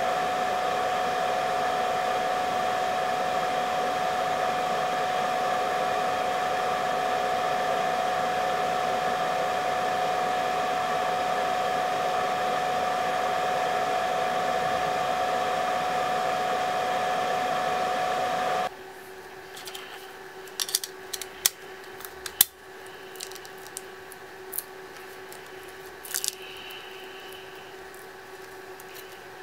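Electric blower of a GPU reflow setup, a hair-dryer-like rush of air with a steady motor tone, runs and then is switched off abruptly about 19 s in. Light clicks and taps of tools or parts being handled follow.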